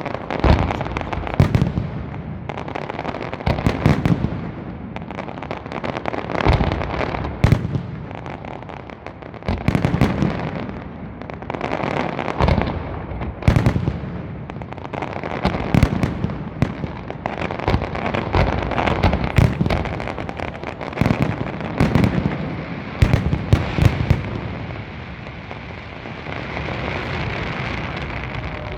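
Aerial firework display: shells bursting with sharp bangs and booms at irregular intervals over a continuous crackle, with a steady hissing crackle near the end.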